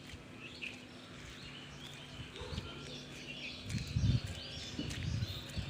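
Small birds chirping over a faint steady hum of open-air ambience, with a few dull low thuds about four and five seconds in.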